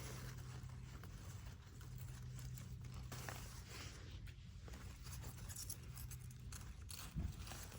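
Faint rustling and light scraping over a low steady hum, with a brief low bump near the end.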